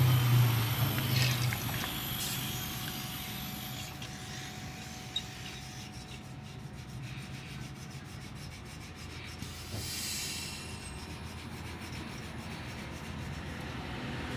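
Rubbing and scraping as a refrigerator part is cleaned by hand, with a brief louder scrape about ten seconds in. A low hum fades out over the first couple of seconds.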